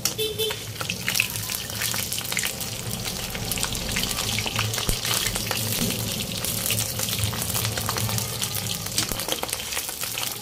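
Slices of chicken Maling luncheon meat frying in hot oil in a wok: a steady, dense sizzle with fine crackling.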